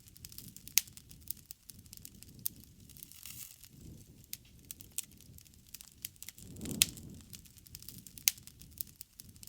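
Bonfire of burning wood crackling, with irregular sharp snaps and pops over a low rush of flame. The rush swells about seven seconds in, together with one of the loudest pops.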